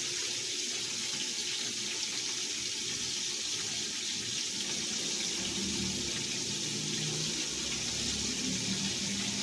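Flour-dredged chicken liver frying in olive oil in a lidded pan: a steady, even sizzle.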